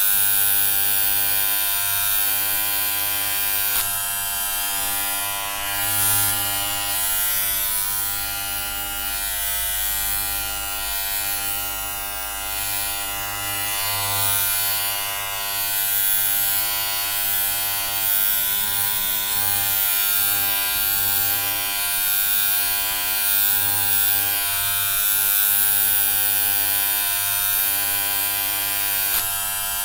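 Electric hair clippers buzzing steadily, a continuous hum with a thin hiss over it that swells and eases slightly.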